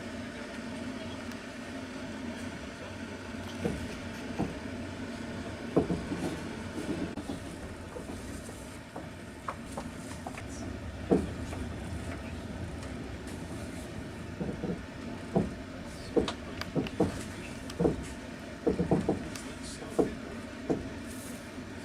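Inside a moving passenger train carriage: a steady rumble of the ride, with irregular sharp clicks and knocks of the wheels and carriage that come more often in the second half.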